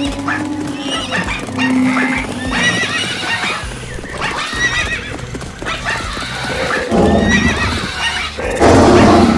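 Horses whinnying several times over galloping hoofbeats, with background music; a louder, noisier burst comes near the end.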